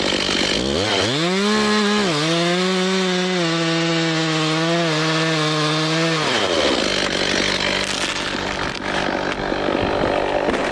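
Chainsaw throttled up about a second in and held at high revs for about five seconds, its pitch dipping slightly as it cuts wood, then released and falling away. A steady lower engine hum carries on underneath.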